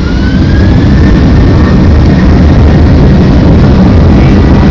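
Boeing 737-200's Pratt & Whitney JT8D jet engines spooling up to takeoff thrust, heard from inside the cabin. A heavy rumble swells over the first second, then holds loud and steady, with a thin whine rising slowly in pitch.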